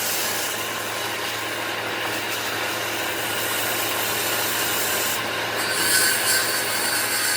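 A tool working wood with a steady, scraping rub that carries on without a break.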